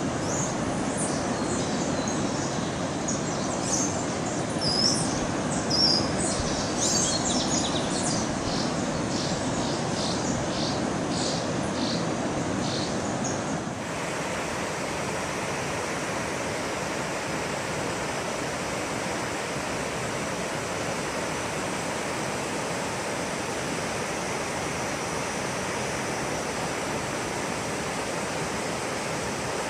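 Outdoor nature ambience: a steady rushing noise with birds chirping and calling over it. About halfway through, the birds stop and the sound cuts abruptly to a smoother, even rushing noise with a faint high steady whine.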